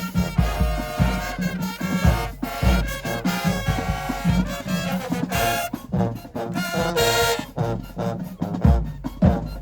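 High school marching band playing: brass horns holding chords and moving lines over regular drum hits.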